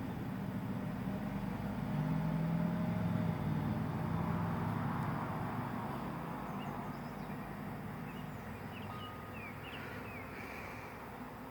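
A distant engine passes, loudest a few seconds in and then slowly fading, over the buzzing of a honey bee swarm.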